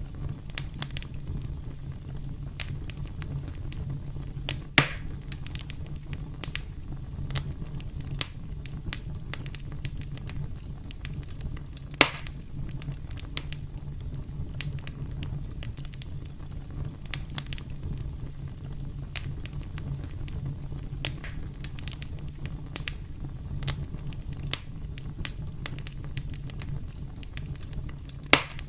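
Wood campfire crackling, a steady low rumble of burning under frequent sharp snaps and pops, with three louder pops at about 5, 12 and 28 seconds.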